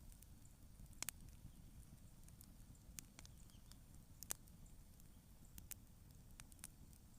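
Quiet wood campfire crackling: irregular sharp pops and snaps of burning wood, the strongest about a second in and just past four seconds, over a low steady rumble.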